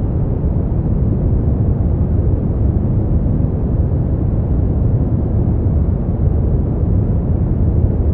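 Steady synthetic brown noise: a deep, even rumbling hiss with most of its energy in the low end, unchanging throughout.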